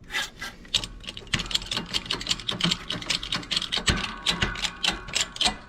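Quick, uneven run of light metallic taps and clinks from a small sheet-steel patch piece being worked and handled, with a brief metallic ring near the end.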